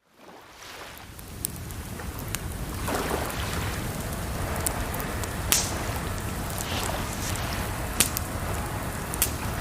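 Campfire crackling, with sharp pops every second or two, over a steady rush of water. The sound fades in over the first couple of seconds.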